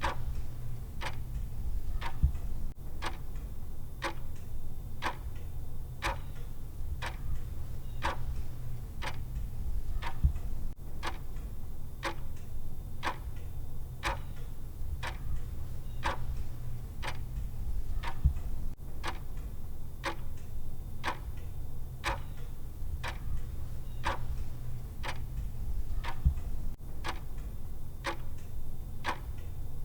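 Clock ticking at about one tick a second, the countdown timer's tick sound, over a steady low hum.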